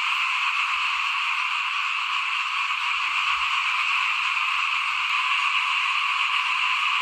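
A dense chorus of small frogs calling, a steady unbroken din.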